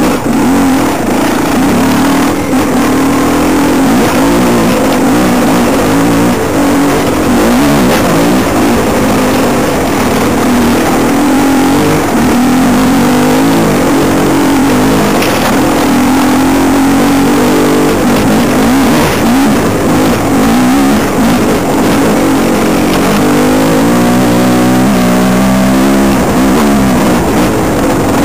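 Dirt bike engine running close to the microphone, its pitch rising and falling over and over as the throttle is opened and closed on a rough trail.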